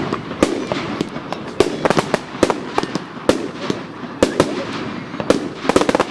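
Fireworks going off: a string of sharp bangs and cracks at irregular intervals, several a second, with a rapid crackling run near the end.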